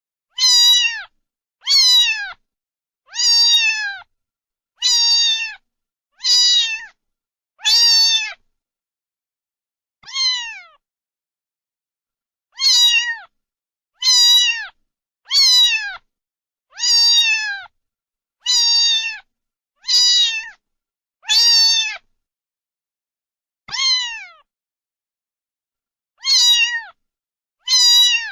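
Domestic cat meowing over and over, about seventeen short meows, each falling in pitch, with pauses of a second or more between them and a few longer gaps.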